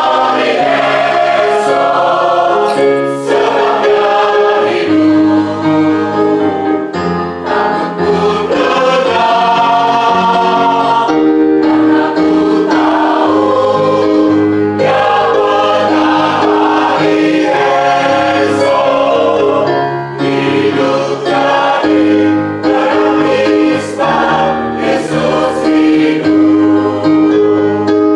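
Church choir singing in harmony, holding chords that shift every second or so over low sustained notes.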